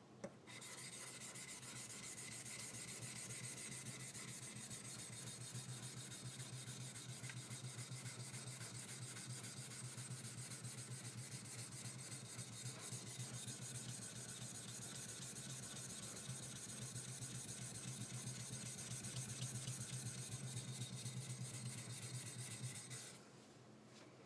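A high speed steel skiving knife blade rubbed back and forth on a wet sharpening stone in quick, continuous strokes, stopping about a second before the end.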